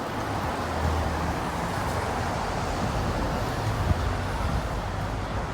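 City street traffic: vehicles passing with a steady hiss of tyres and a low engine hum.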